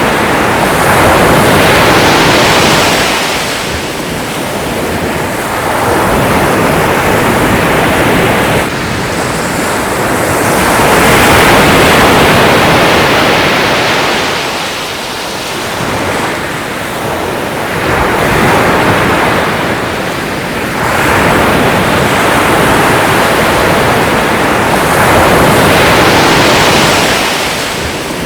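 Sea waves breaking and washing on a shore, rising and falling in slow, loud surges every few seconds.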